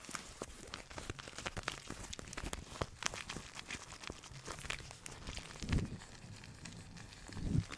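Close-miked ASMR crinkling and crackling, a quick run of small clicks, with two soft low thumps near the end.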